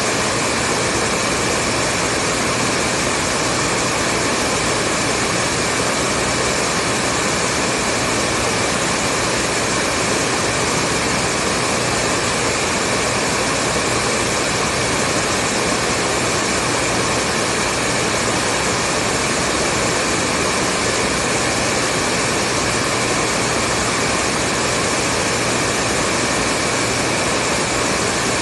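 Hair dryer running steadily: a continuous, even rushing of blown air with a faint steady whine.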